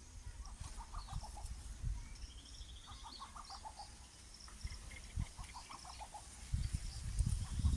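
Wild birds calling: three bursts of rapid, clucking notes, with a fast, high trill from another bird about two seconds in. A low rumble rises near the end.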